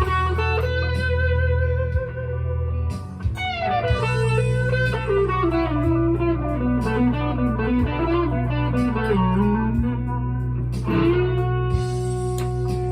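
PRS SE McCarty 594 single-cut electric guitar played through an amp. A chord rings out, another is struck about three and a half seconds in and followed by a run of single notes stepping down in pitch, then a final chord is struck near the end and left to sustain.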